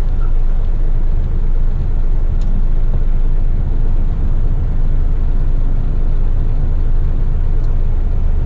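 Heavy rigid truck's diesel engine running with a steady low drone, heard from inside the cab.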